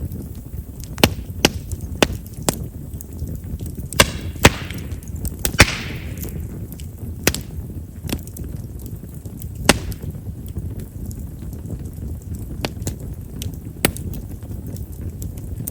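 Chestnut firewood burning in an open fire: a steady low rumble of flame with about a dozen sharp pops and crackles, and a brief hiss from the wood about four seconds in. Chestnut's large pores make it a wood known for popping as it burns.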